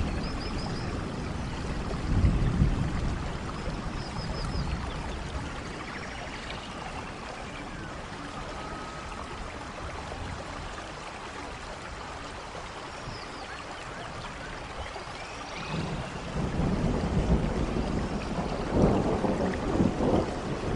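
Steady rain falling, with rolling thunder: a short low rumble about two seconds in, then a longer, louder rumble building near the end.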